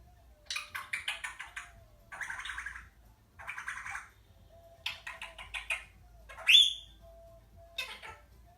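Baby Indian ringneck parrot chattering: several short runs of quick clicking, raspy notes, then one loud sharp squawk about six and a half seconds in and a brief call near the end.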